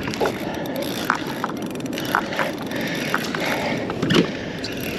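Kayak being paddled fast while trolling: steady water rush and splashing along the hull, with scattered knocks and clicks from the paddle strokes.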